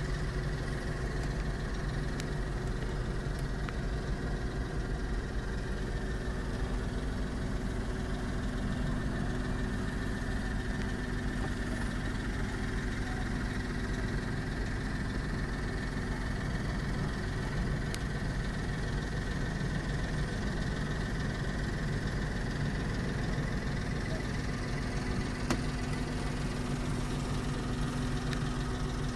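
The kei camper van's 660 cc engine idling steadily, heard from inside the cab as an even hum and rumble.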